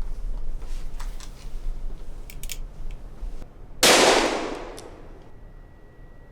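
Film sound effects: a few small clicks and knocks, then a single loud gunshot about four seconds in that dies away over about a second. A steady high ringing tone begins near the end.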